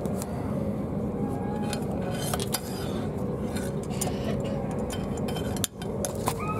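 Interior running noise of a Class 377 Electrostar electric multiple-unit train: a steady rumble with a constant hum, broken by scattered sharp clicks and light rattles.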